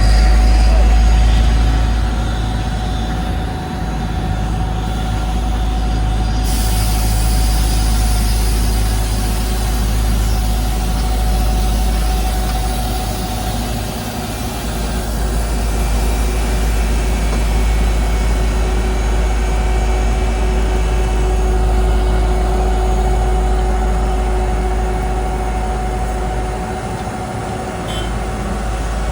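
Heavy diesel paving machinery running steadily: a deep engine rumble with a faint steady whine above it.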